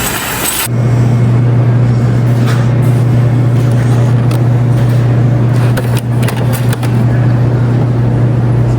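A steady, low vehicle drone begins abruptly just under a second in and runs on, with a few faint clicks scattered through it. Before it there is a brief hissing noise.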